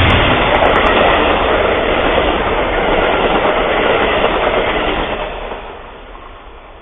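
A train passing close by on the tracks, loud at first and fading away from about five seconds in.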